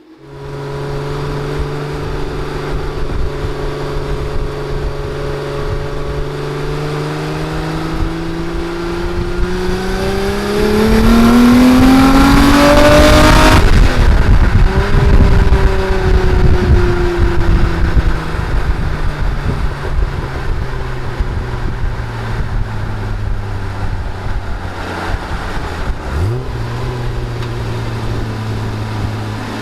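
A V6 engine in a Toyota MR2 runs through a freshly fitted Fujitsubo Legalis R cat-back exhaust. It holds steady, then the revs climb over about five seconds to the loudest point and drop off sharply. After that the pitch slowly falls and settles back to a steady low note.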